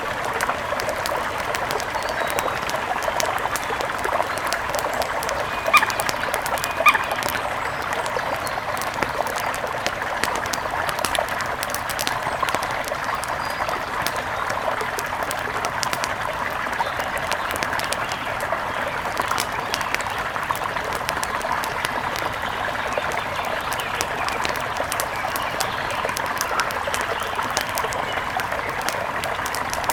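Steady rush of a mountain river mixed with the scattered crackle of a wood fire, with two brief louder sounds about six and seven seconds in.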